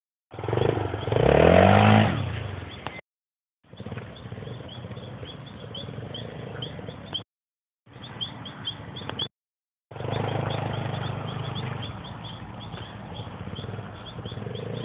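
Honda Tornado 250's single-cylinder four-stroke engine revving hard, its pitch rising about a second in, then running at a steadier pace, cut off and resumed several times.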